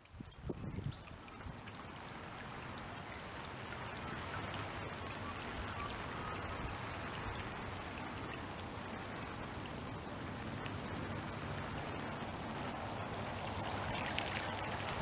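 Steady wash of running water and rain: storm runoff flowing into a nearly full farm dam. A few soft knocks come in the first second.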